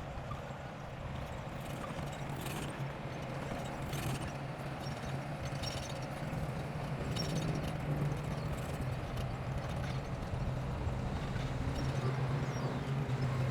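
Bulldozer's diesel engine running steadily, slowly growing louder, with scattered knocks and clanks every second or two.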